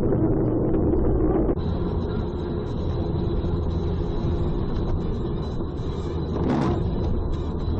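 Steady engine and road rumble of a car, heard from inside the vehicle, with an abrupt change in the sound about a second and a half in and a brief swell of noise near the end.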